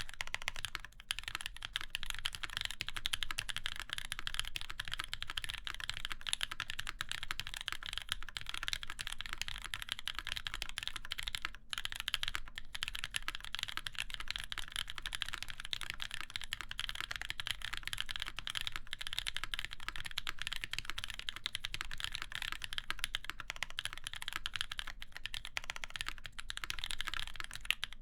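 Continuous fast typing on a Keycult No. 2 mechanical keyboard with a full aluminum plate, lubed NK Cream linear switches and GMK keycaps: a dense stream of keystroke clacks. There is a brief pause about a second in and another near the middle.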